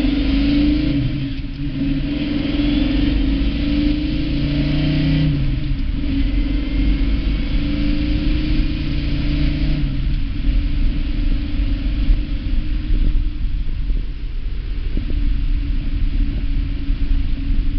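Dodge Challenger's engine heard from inside the cabin while driving and accelerating: a loud, deep rumble whose note shifts a few times in the first several seconds, over road noise.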